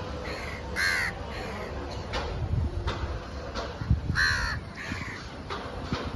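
Birds calling: two loud calls about a second in and about four seconds in, with fainter calls between, over a steady low rumble.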